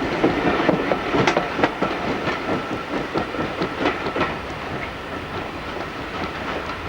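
Train wheels clattering over jointed rail in an irregular run of sharp knocks, dying away as the train moves off.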